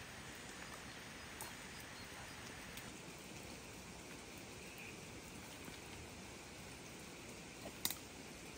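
Steady light rain falling on the surroundings, an even hiss. A few faint clicks, and a sharper, louder crack about eight seconds in as dead branches are handled.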